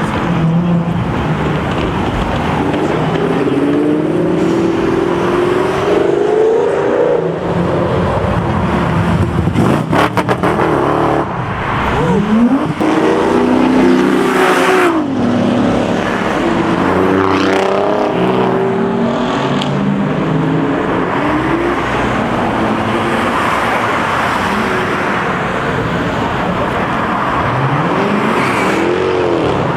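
Several cars revving and accelerating away one after another, their engine notes repeatedly rising and falling as they pass. A quick run of sharp cracks comes about ten seconds in.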